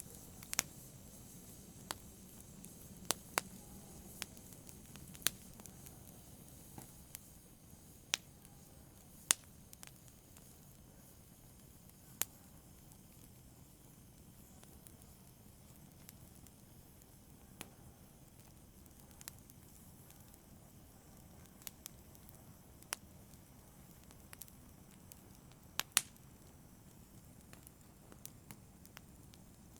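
Fire crackling softly: sparse, irregular sharp pops and snaps over a faint low hiss.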